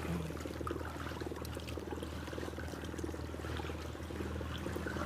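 Water trickling and splashing around a kayak's hull as it moves, over a steady low hum.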